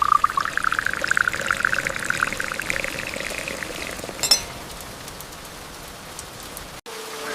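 Liquid pouring into a vessel, its pitch rising as it fills, tapering off about three seconds in to a soft steady hiss. A short click comes a little after four seconds.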